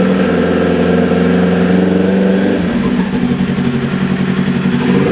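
2022 Kawasaki Ninja 400's parallel-twin engine running through an SC Project slip-on exhaust with the dB killer fitted, held at about 3,000 rpm. The exhaust note is steady, then changes and eases about two and a half seconds in.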